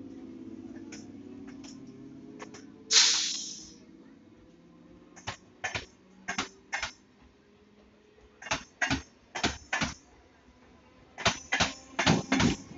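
Suburban electric multiple-unit train running past a platform, its wheels clacking over rail joints in pairs and groups that come faster near the end. A low hum fades over the first few seconds, and a brief loud hiss sounds about three seconds in.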